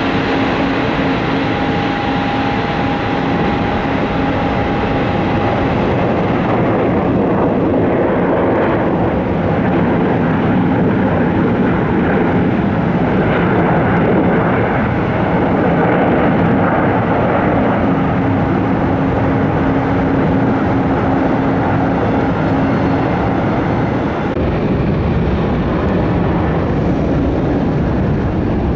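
A Boeing 737-800's CFM56 jet engines running at low power as it taxis in to the gate: a steady rumble with a faint steady whine. About 24 seconds in, the sound changes to another airport scene.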